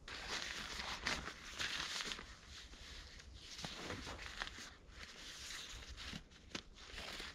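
Continuous dry rustling with scattered sharp crackles and snaps.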